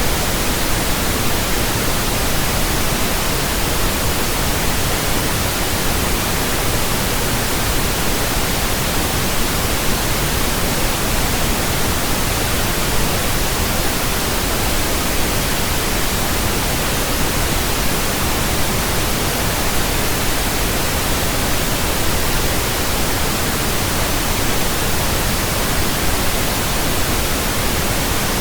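Steady pink noise at constant loudness, a full-range hiss used as a burn-in signal for new speakers and earphones.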